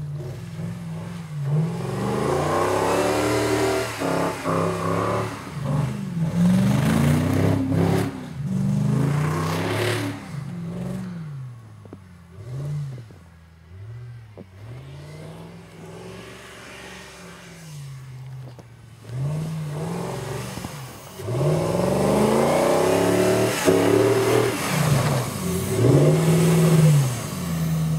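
2004 Jeep Grand Cherokee's 4.7 HO V8 with a Magnaflow exhaust, revving up and falling back over and over as the Jeep spins its wheels and slides in deep snow. Loud near the start and again near the end, fainter through the middle.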